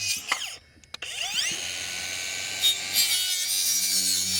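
Electric power saw cutting wood: the blade winds down just after the start, then the saw starts again about a second in with a rising whine and runs steadily through the board, trimming it a little shorter.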